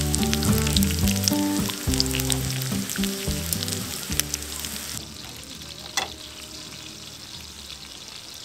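Food sizzling and crackling in a hot pan under background music that fades out. About five seconds in the sizzle abruptly drops to a quieter hiss.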